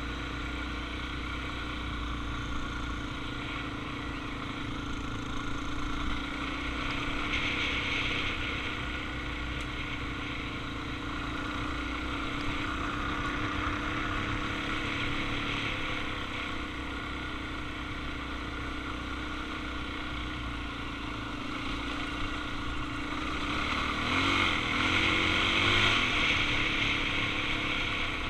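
Suzuki DR-Z400's single-cylinder four-stroke engine running steadily while the motorcycle is ridden. The revs rise and waver briefly about three-quarters of the way through.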